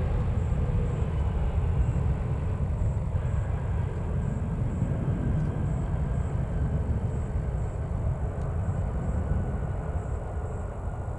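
Airbus A320neo's CFM LEAP-1A jet engines as a steady low rumble with faint engine whine, slowly fading as the airliner moves away after landing.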